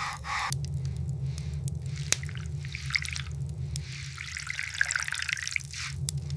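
Water dripping and trickling over a steady low rumble, with a denser spell of trickling about three to six seconds in.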